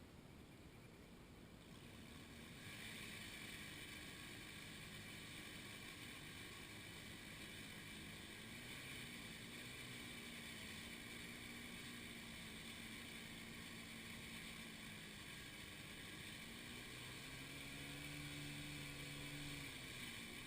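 A faint engine running steadily, its pitch drifting and rising near the end, with a steady hiss that comes in a couple of seconds in.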